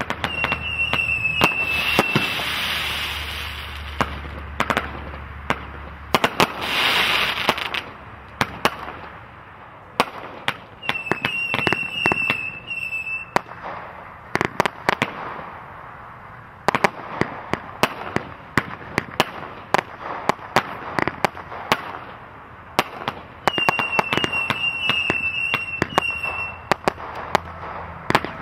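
Consumer firework cakes from a 200-gram assortment firing: a rapid run of sharp shots and bangs with stretches of crackling hiss. A wavering high whistle comes back three times, near the start, at about the middle and near the end.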